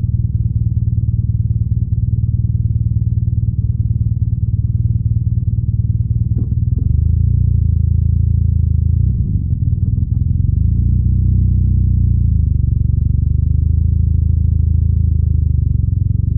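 BMW R nineT's 1170 cc boxer twin running under a rider, a deep, pulsing exhaust note. About six seconds in the engine note changes and then rises and falls a little as the bike rides on.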